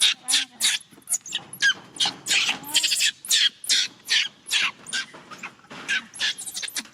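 Baby macaque crying in a rapid run of short, high-pitched screeching calls, about two to three a second.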